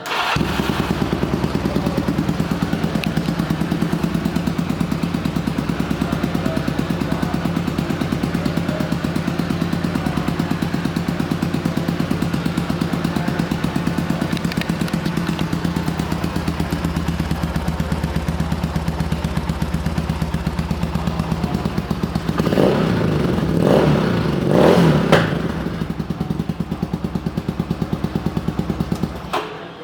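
2008 Johnny Pag Spyder 300cc chopper engine idling steadily, revved briefly a few times about three-quarters of the way through, then settling back to idle.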